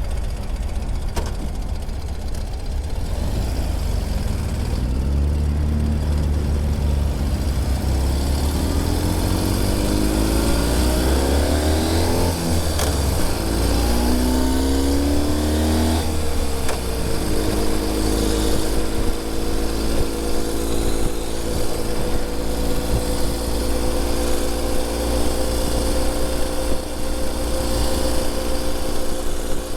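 Ural Gear Up sidecar motorcycle's flat-twin engine pulling under way. It rises in pitch twice and drops back as it shifts up through the gears, then runs steadily at cruising speed with its pitch creeping slowly upward.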